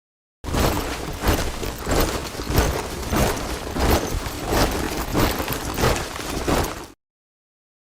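A squad of soldiers marching in step, boots striking the ground together about one and a half times a second. The steps start about half a second in and cut off suddenly near the end, with dead silence on either side.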